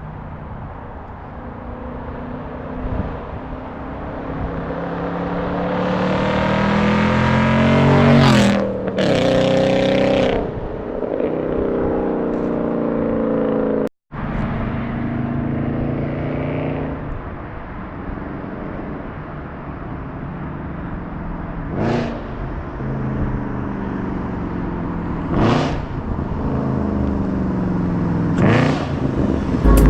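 Audi S5 with a straight-piped exhaust (cat-back, no mufflers) accelerating hard. The engine note climbs in pitch and drops sharply at each gear change: one long pull peaking about eight seconds in, then several quicker shifts near the end.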